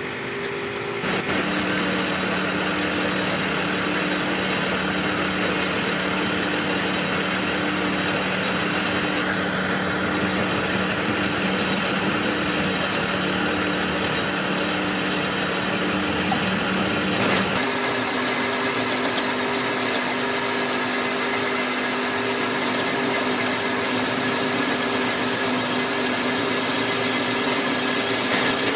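A machine motor running steadily with a humming tone. It comes up to full run about a second in, and its hum shifts abruptly to a higher tone about seventeen seconds in.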